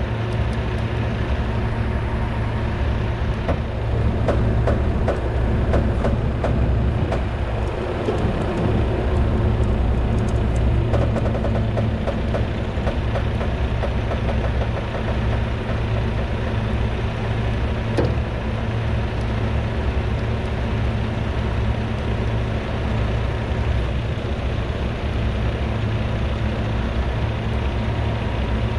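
Heavy diesel truck engine running steadily during a winch recovery of a loaded dump truck, with one sharp click about 18 seconds in.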